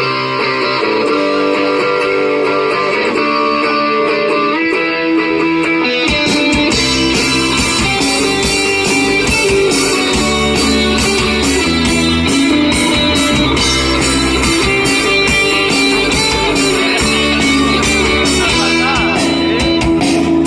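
Live rock band playing a song's instrumental intro: a guitar plays alone at first, then about six seconds in bass and drums come in and the full band plays on.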